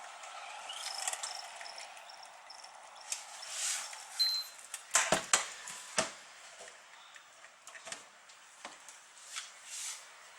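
Sharp knocks and clicks of hard objects being handled, bunched together about five to six seconds in, with lighter clicks scattered after; a steady hum fades away during the first few seconds.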